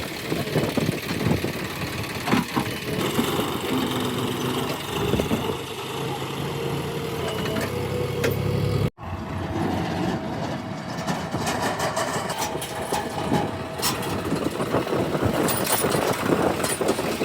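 Diesel engine of a JCB 3DX backhoe loader running steadily at work, with scattered knocks and clatter. The sound cuts out for an instant about halfway through.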